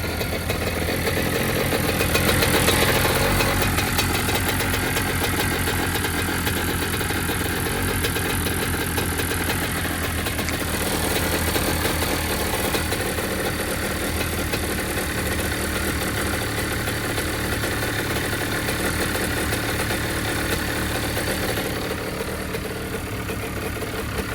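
The two-stroke single-cylinder engine of a 2006 Honda CR85 dirt bike runs steadily at idle while still cold. It revs up briefly about two to three seconds in.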